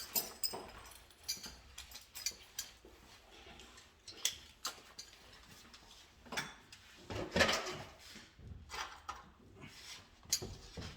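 Hand tools and small metal parts being handled at a workbench during electrical wiring work: irregular clicks, clinks and short scrapes, with a longer, louder rustling scrape about seven seconds in.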